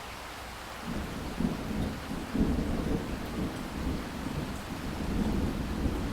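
Steady rain with thunder: a low rumble starts about a second in and rolls on in uneven swells over the rain's hiss.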